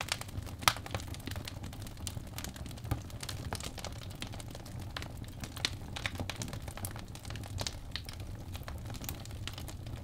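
Wood bonfire crackling and popping, with irregular sharp snaps over a low steady rumble of the flames; the loudest pop comes just under a second in.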